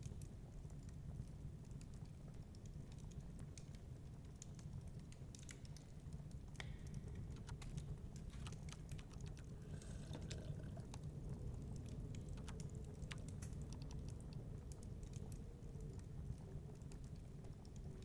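Wood fire crackling in a fireplace, with irregular small pops and snaps, over a steady low rumble of storm wind.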